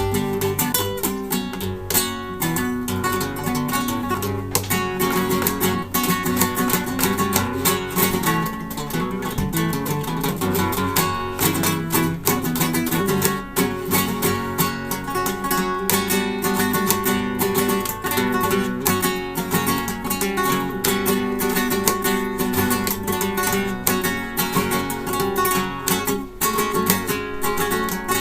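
Solo flamenco guitar playing fandangos, with rapid strummed rasgueado passages and sharply plucked notes in a continuous, driving flow.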